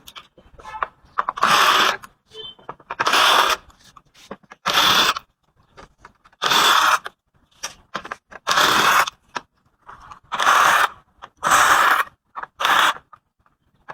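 Screws being backed out of a TV's back panel with a screwdriver: about eight short, even bursts of whirring and ratcheting, one to two seconds apart, with small clicks of handling in between.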